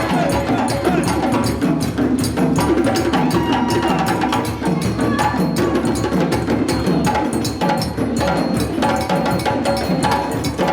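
Live parade percussion band playing a fast, steady rhythm on drums, with sharp woodblock-like clicks over a low drum pulse.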